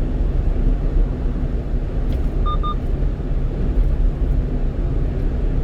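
Steady low road and engine rumble inside the cab of a 1-ton truck driving on an expressway. Two short electronic beeps sound in quick succession about two and a half seconds in.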